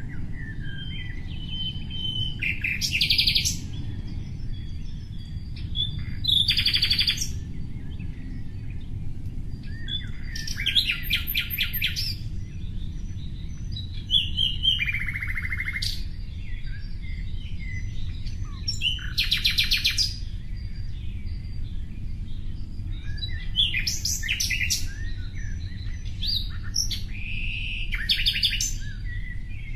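Small songbird chirping and singing: bright, rapid trills and short chirps about every two to four seconds, over a steady low rumble.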